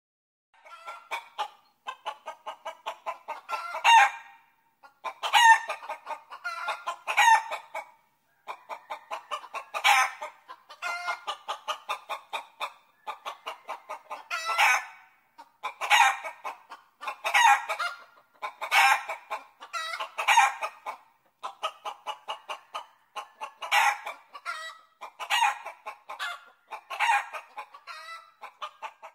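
Chickens clucking in a run of short repeated calls, with louder calls every second or two.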